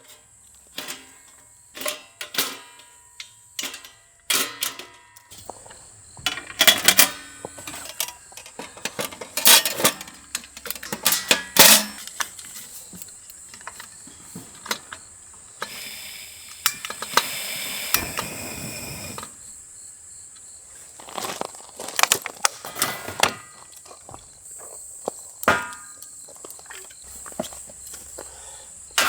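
Irregular knocks, clicks and rattles of objects being handled, with a few seconds of rushing noise about two-thirds of the way through.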